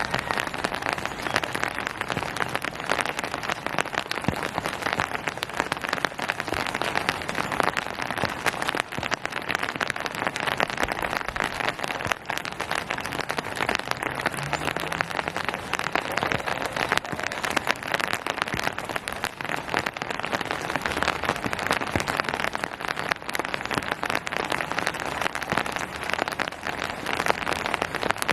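Steady rain: a dense patter of raindrops on surfaces over a continuous hiss, even in level throughout.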